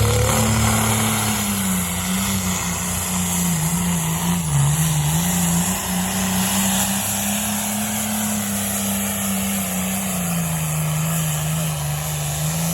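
Pulling vehicle's engine running loud and continuous during a pull, its pitch sagging and recovering several times as it works against the load.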